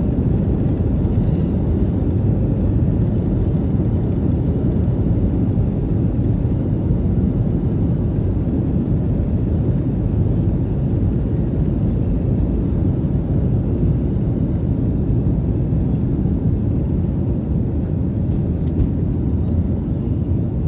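Steady low rumble of a Boeing 737-700's CFM56-7B jet engines and the rushing air around the fuselage, heard from inside the passenger cabin.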